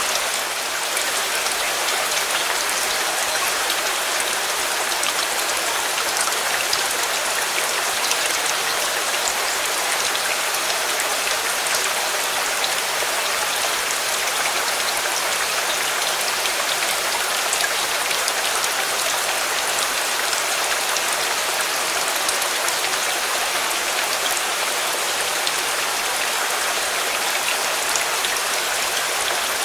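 Steady rain: an even, unbroken hiss of rainfall with scattered faint ticks of individual drops.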